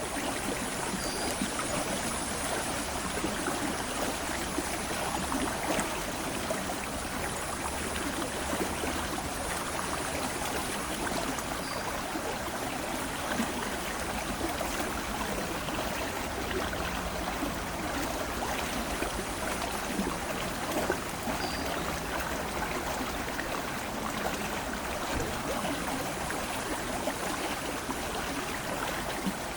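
Steady rush of flowing water from the Aare river, an even, unbroken sound.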